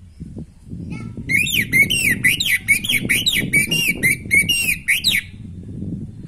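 Orange-headed thrush (anis merah) singing a fast run of rising-and-falling high notes, about three a second, for roughly four seconds, over a low background rumble.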